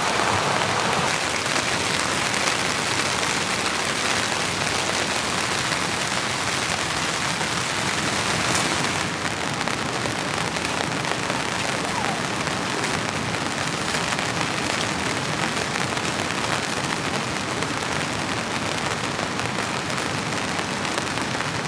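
Heavy rain pattering steadily on a tent's fabric.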